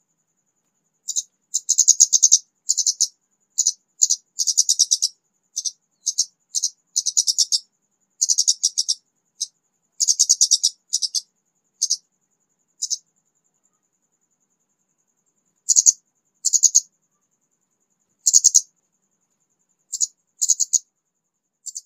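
A young, wild-caught kemade bird singing: short, high, rapid trilled phrases, bunched closely for the first dozen seconds, then more scattered with longer pauses.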